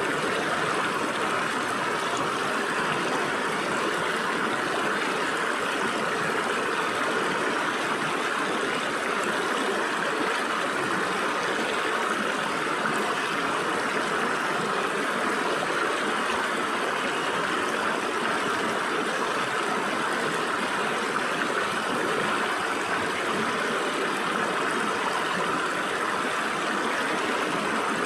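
Shallow stream water flowing and splashing through gaps between rocks, a steady even rush.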